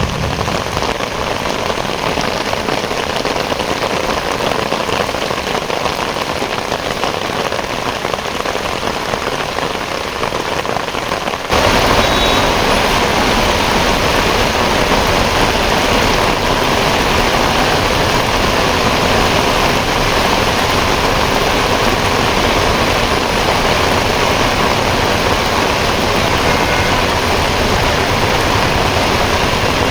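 Heavy rain pouring down in a steady hiss, which jumps suddenly louder about a third of the way through.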